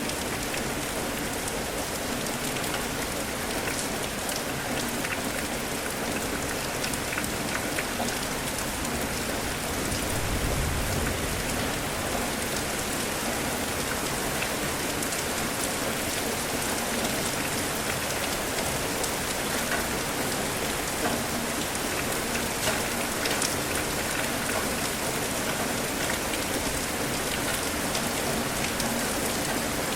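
Steady rain falling, an even hiss with scattered individual drops tapping on a surface, and a brief low rumble about ten seconds in.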